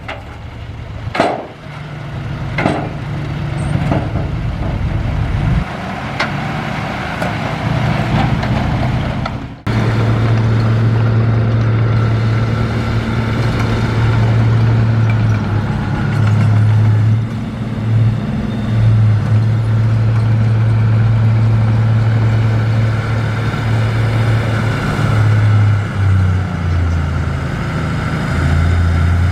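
Heavy diesel earthmoving machinery running, with a few sharp knocks in the first three seconds. About ten seconds in the sound changes abruptly to a strong, steady low engine drone that dips briefly a few times.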